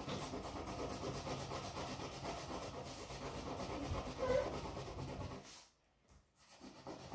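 Wax crayon rubbing back and forth on paper, pressed down hard, a steady scratchy rubbing that stops for about a second near the end and then starts again.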